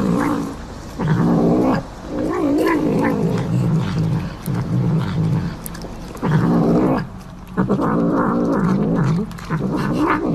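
A cat yowling: a series of about five long, wavering calls with short breaks between them.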